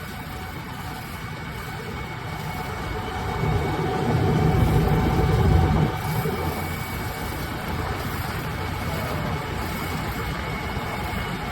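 Preet 987 combine harvester's engine running steadily as the machine drives along, with a louder low rumble building for about two seconds near the middle and cutting off suddenly.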